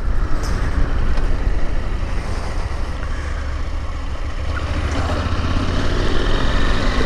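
Motorcycle engine running steadily at low revs, a constant low rumble.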